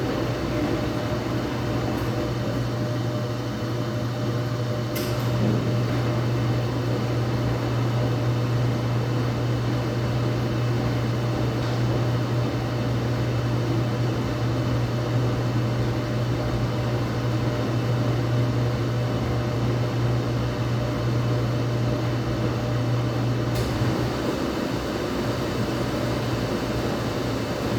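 Laundromat washing machine running, with a steady low motor hum over a wash noise; the hum stops about 24 seconds in. A few faint clicks.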